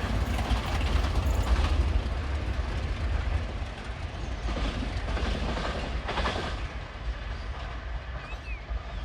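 Passenger train rolling along the track: a low rumble with a few wheel clacks, fading steadily as it moves away or slows.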